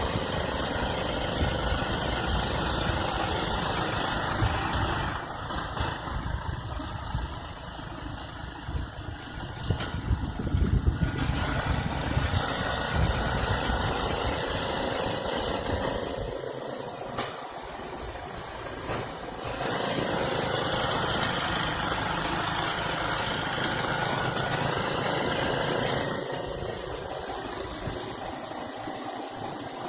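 Ariens snowblower's engine running while it clears snow, its level rising and falling.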